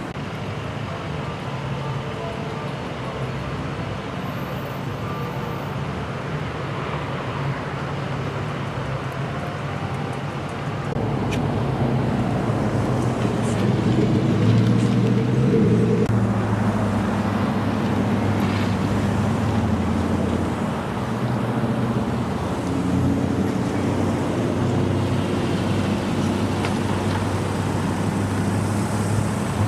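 Road traffic noise with a vehicle engine running close by, its hum growing louder about a third of the way in and then easing off a little.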